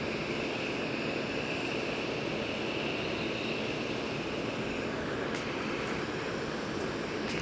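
Steady outdoor rushing of wind and traffic, with a faint high hum that fades out about five seconds in.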